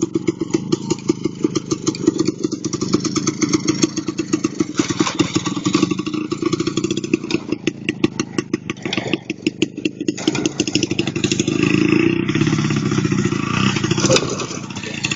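Soviet IZh two-stroke motorcycle engine running with changing revs, its exhaust pulses coming fast and rattly, and louder for a couple of seconds near the end.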